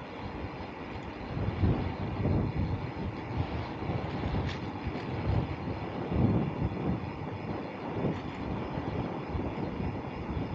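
Wind buffeting the microphone of a camera on a moving bicycle, mixed with the rolling noise of the tyres: an uneven low rumble that grows a little louder about a second and a half in.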